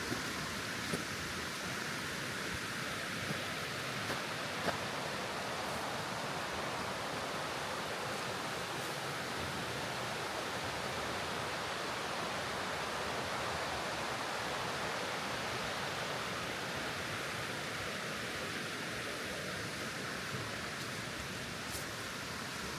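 Steady rush of running water, with a few faint sharp ticks in the first five seconds.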